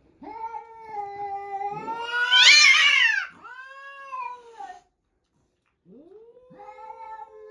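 A cat yowling: one long drawn-out call that rises in pitch and loudness to a peak about halfway, then falls and trails off, with a second long call starting near the end.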